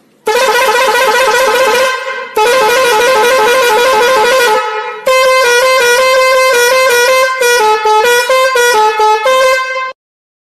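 A buzzy vehicle horn sounding in two long wavering blasts, then a string of short honks at changing pitches like a musical horn tune, stopping abruptly near the end.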